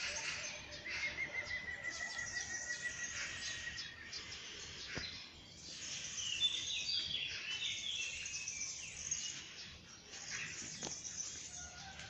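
Several songbirds singing and chirping in the morning, with one long rapid trill in the first few seconds and overlapping short high chirps throughout.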